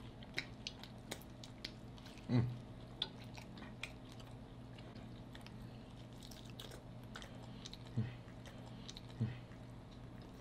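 Close-miked chewing and biting of fried chicken wings, with many small crunchy clicks and wet mouth sounds. Three short vocal sounds break in, the loudest about two seconds in and two more near the end.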